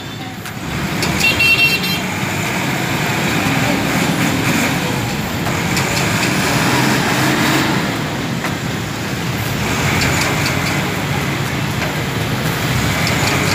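Busy road traffic: engines running and tyres rolling past, with a vehicle horn sounding briefly about a second in.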